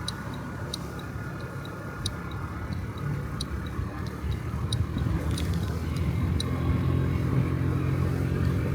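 A Honda Dio Cesta AF68 50cc scooter's four-stroke single-cylinder engine running while riding. The engine drone is steady under wind and road noise and grows a little louder in the second half. Faint, sharp high ticks come at uneven intervals throughout.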